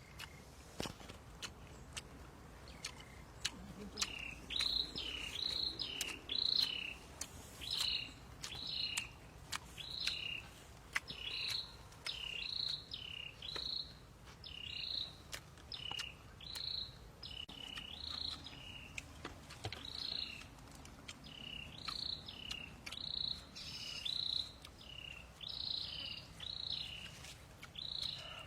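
A small animal's chirping call, repeated about once or twice a second. Each chirp drops from a higher note to a lower one. It starts about four seconds in, over faint scattered clicks.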